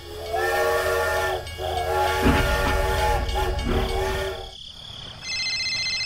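Toy steam locomotive's steam-train whistle sound effect: several long whistle blasts over a steam hiss, with a low thud about two seconds in. A steady high electronic tone starts near the end.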